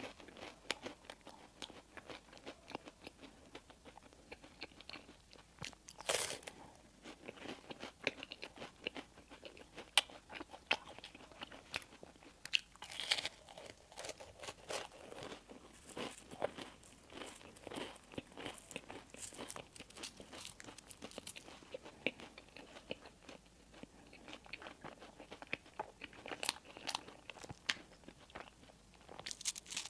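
A person chewing and biting into bakery bread and pastries, close to the microphone: a steady run of small mouth clicks and crunches, with louder bites about six seconds and thirteen seconds in.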